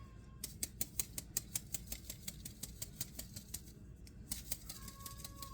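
A flour sifter clicking rapidly and evenly, about five clicks a second, as leftover flour is sifted to catch the oversized particles. A faint thin squeak sounds near the start and again near the end.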